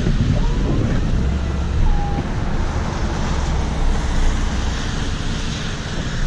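A vehicle engine running steadily under a constant rushing noise, with a brief faint tone about two seconds in.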